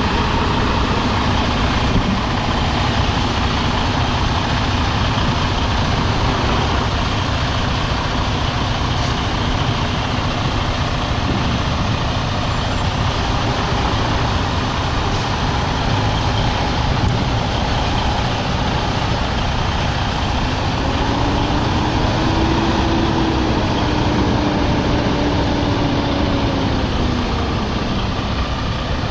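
Semi truck's diesel engine running steadily at low speed while the rig backs up in a straight line. In the last third its tone rises and then falls.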